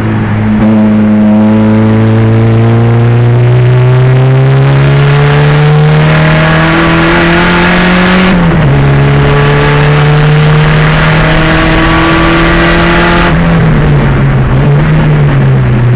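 A 1987 Pontiac Fiero's turbocharged 2.0-litre engine pulling hard, its note climbing steadily for about eight seconds before an upshift drops the pitch. It then holds a fairly steady note until near the end, when the pitch falls and wavers as the car slows.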